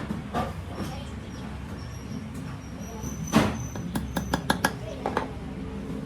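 Workshop sounds over a steady low hum: a loud knock about three and a half seconds in, then a quick run of sharp taps or clicks.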